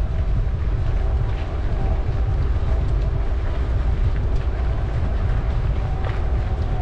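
Steady low rumble of a bicycle ride: wind buffeting the microphone and tyres rolling on the path, with a faint steady hum over it.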